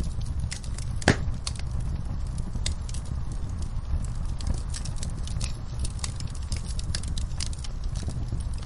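Wood fire in a fireplace crackling, with irregular sharp pops and one louder pop about a second in, over a low steady rumble.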